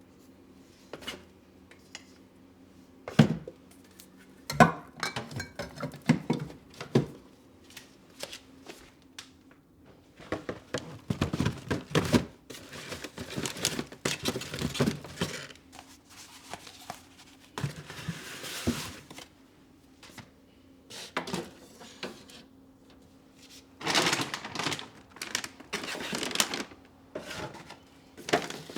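Household items being handled in a kitchen: a run of knocks, clicks and clatters as things are picked up and set down, with stretches of rustling, over a faint steady hum.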